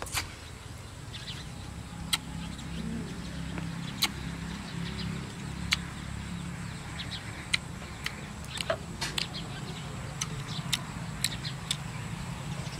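Mouth sounds of someone eating: chewing and sharp wet smacks and clicks every second or two, over a steady low rumble.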